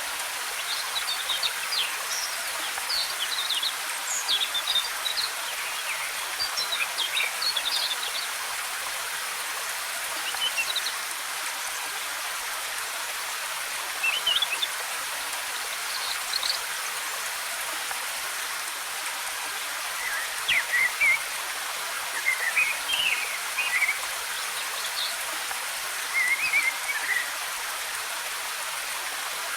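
Steady rush of falling water from a waterfall, with songbirds chirping in short, quick phrases over it: a run of calls in the first several seconds, a few scattered ones in the middle, and another busy stretch near the end.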